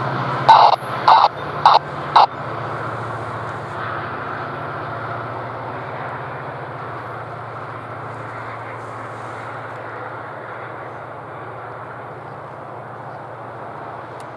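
Passing train running with a steady rumble that slowly fades away. Four sharp, loud knocks come about half a second apart in the first couple of seconds.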